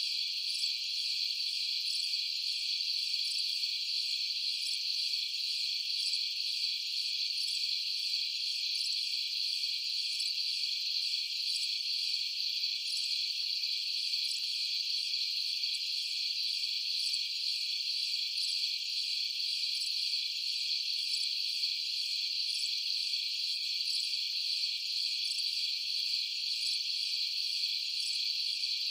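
A dense chorus of crickets trilling steadily, high-pitched, with a faint quick pulsing above it and no low sounds underneath.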